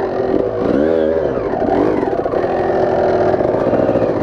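Dirt bike engine running under a rider, its pitch rising and falling with the throttle, then holding steady for about a second in the second half.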